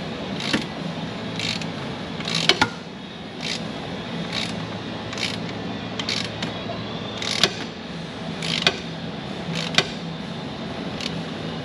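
Ratchet wrench tightening down the Cummins retaining-ring installer tool in an ISX injector cup, its pawl clicking in short strokes about once a second over a steady low hum. The tool is driven until its jam nut bottoms out, which seats the ring in the cup.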